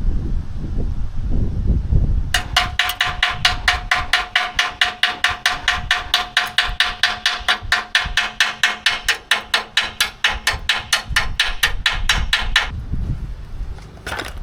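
Rapid, even hammer blows on steel, about five a second for some ten seconds, the struck metal ringing with a steady tone. A low rumble comes before the hammering starts and after it stops.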